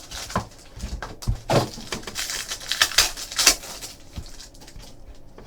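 A trading card box and its packaging being handled and opened: a few light knocks, then crinkly tearing and rustling of wrapping about two to three and a half seconds in.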